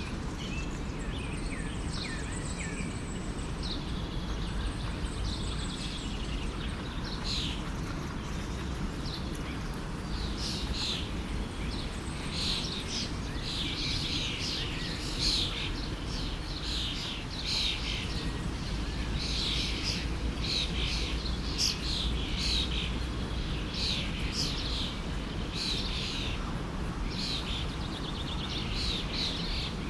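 Forest stream flowing steadily, with songbirds chirping and calling over it; the birdsong grows busier from about ten seconds in.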